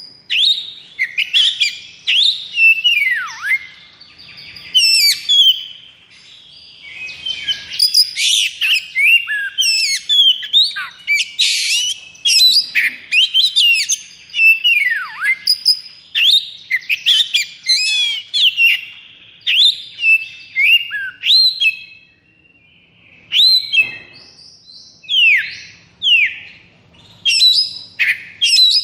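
Oriental magpie-robin (kacer) singing its excited 'konslet' song: a fast, near-unbroken string of loud whistles, trills and downward-sweeping notes, with a brief pause about three-quarters through. This is the high-arousal, fighting-mood song used as bait to make other kacer sing.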